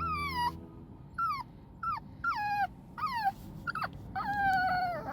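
A Maltipoo puppy (Maltese × toy poodle) howling along after a piano tune, in a run of about seven short yowls that each fall in pitch, with a longer held howl near the end.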